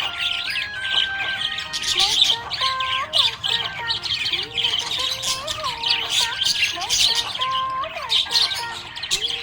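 Budgerigars chirping and chattering in a fast, continuous stream of short high chirps, with a simple repeating melody of held and gliding notes running underneath.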